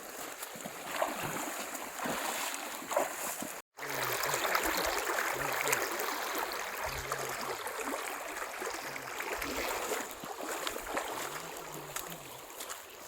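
Steady rush of running stream water, louder after a brief dropout about four seconds in.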